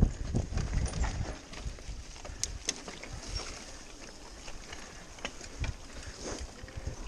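Mountain bike riding over a rough dirt trail: irregular knocks and rattles from the bike over bumps, heavier in the first second and a half, over a steady rolling noise.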